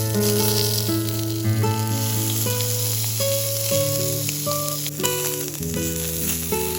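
Food sizzling as it fries, a steady hiss, under background music of plucked notes.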